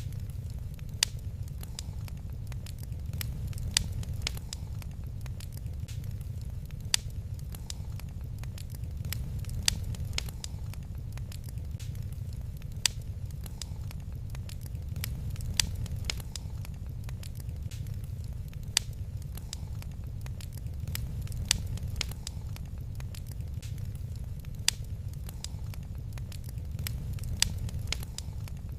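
Wood fire crackling in a fireplace: a steady low rumble with many small crackles and a sharper pop about every three seconds.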